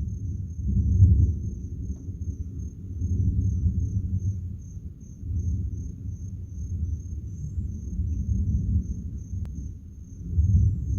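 Thunder rolling in long low rumbles that swell and fade several times, over a steady high-pitched insect trill.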